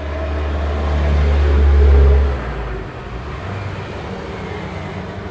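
Tata Super Ace engine revved: a low hum that builds for about two seconds, then drops back sharply to a steadier run.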